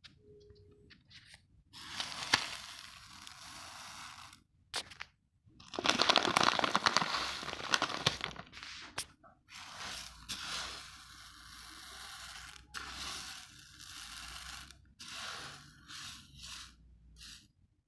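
Raw, uncooked basmati rice grains crunched between the teeth, in a run of crunching bursts with short pauses. The loudest stretch comes about six seconds in.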